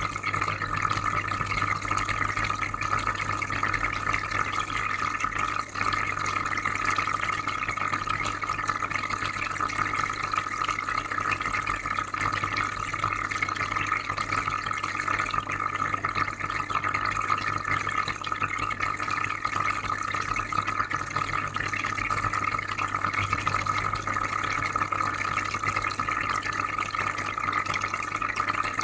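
Freshwater aquarium filter running: continuous bubbling and trickling water over a steady low hum.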